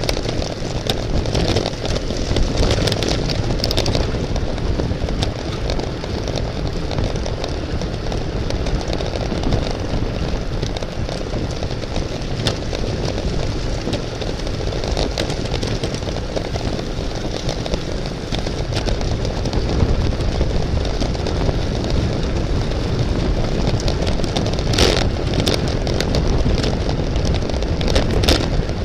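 Steady wind rush over the microphone of a camera on a bicycle moving at race speed, with a few brief clicks near the end.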